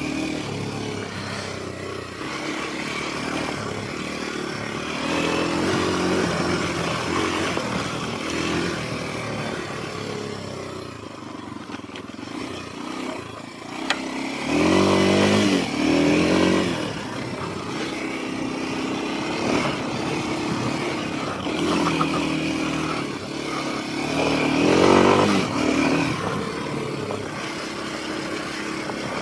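Kawasaki KLX230 dual-sport's single-cylinder four-stroke engine under way off-road, revving up and down as the rider works the throttle, with louder pulls about halfway through and again near the end.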